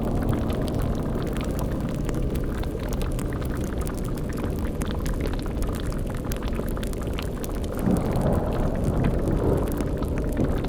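Layered dark fantasy ambience: a low rumbling drone with a boiling cauldron bubbling and a fire crackling. About eight seconds in, a louder low swell rises over it, and another comes just before the end.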